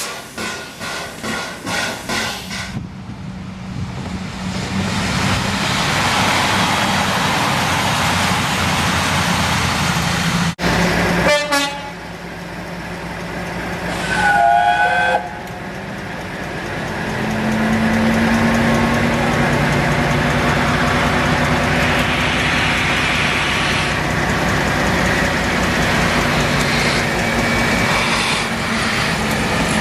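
Steam locomotive 60163 Tornado working with regular exhaust beats for the first few seconds, then the continuous rushing noise of a train on the move. A short two-note horn sounds about halfway through, and a steady low drone runs under the rail noise in the later part.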